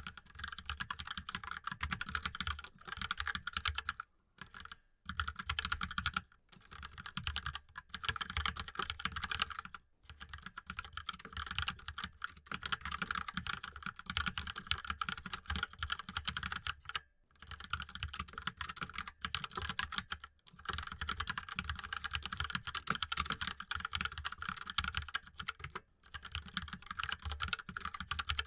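Fast, continuous typing on a mechanical keyboard: a dense run of key clicks broken by several brief pauses.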